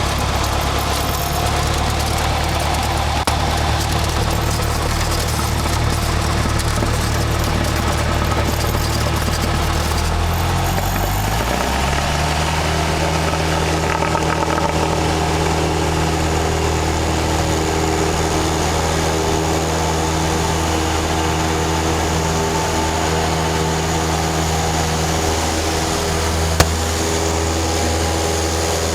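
Small airplane's piston engine running steadily; about eleven seconds in its pitch rises and then holds at the higher speed, with a single sharp click near the end.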